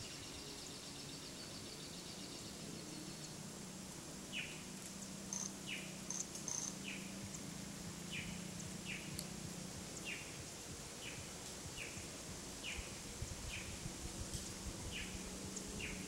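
Cuban tody calling: a run of short, falling chirps, about one every two thirds of a second, starting about four seconds in, after a rapid high trill that stops about three seconds in. A steady faint insect hum lies underneath.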